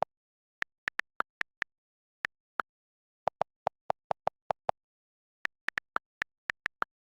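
Short, sharp pitched clicks at irregular spacing, separated by dead silence; around the middle a quicker run of lower-pitched ticks comes at about six a second.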